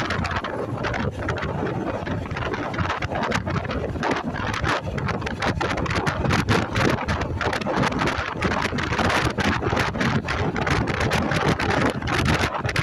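Wind buffeting the microphone of a moving motorcycle: a loud, steady rush with rapid gusty fluttering, and vehicle noise underneath.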